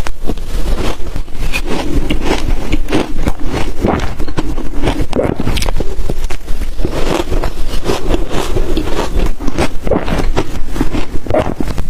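Ice dusted with matcha and milk powder being bitten and chewed close to the microphone, crunching and cracking again and again.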